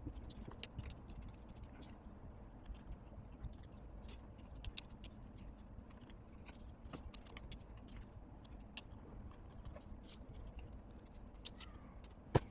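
Paper labels being handled by hand: scattered light crinkles and small ticks, with one sharper tap near the end.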